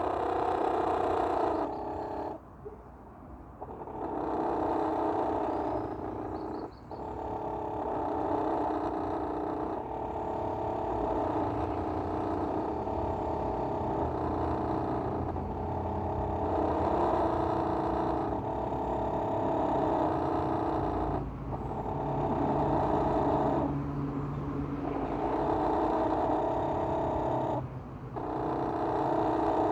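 Chickens making an unusual steady, droning call, held for several seconds at a time with short breaks between stretches.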